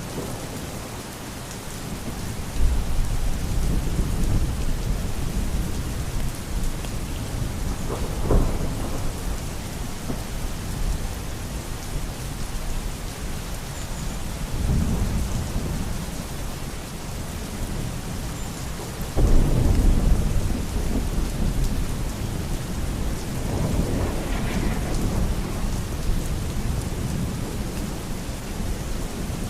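Steady rain falling, with thunder rumbling low several times over it; the loudest roll of thunder sets in suddenly about two-thirds of the way through.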